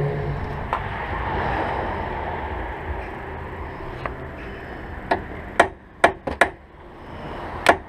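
A hiss of penetrating-oil spray, then about six sharp hammer taps on the seized front wheel speed sensor, knocking it down in its hub bore to break it free.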